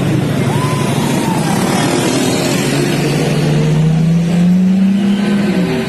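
Sports car engine accelerating, its pitch rising steadily for several seconds and then dropping off near the end.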